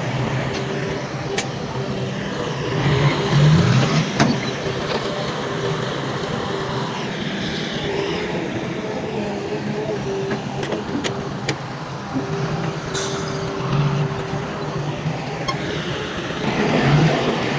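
Heavy diesel earthmoving machinery running steadily, with scattered sharp metallic clicks and clanks; the engine grows louder near the end.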